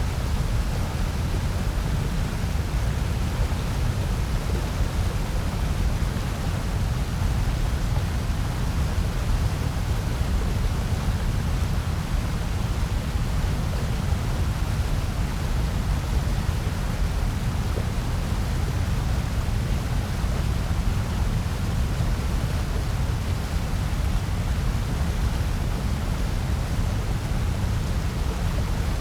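Steady generated noise of the kind sold as white noise, unchanging throughout, heaviest in the low bass with a softer hiss above.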